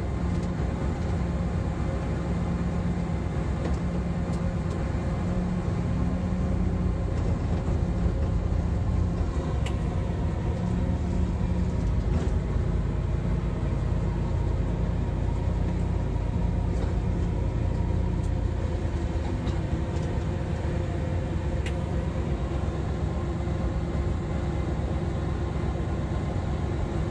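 Train running steadily, a continuous low rumble heard from inside the driver's cab, with a steady hum that weakens about two thirds of the way through and a few faint clicks.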